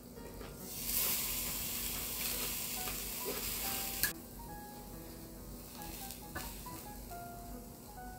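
Beef slices sizzling loudly on a hot charcoal grill grate as they are laid on. The hiss starts about a second in and cuts off suddenly about four seconds in, leaving soft background music.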